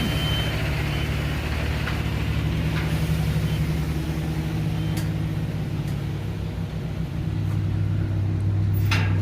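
Motor vehicle engine idling steadily, its note dropping a little about seven and a half seconds in, with a sharp click near the end.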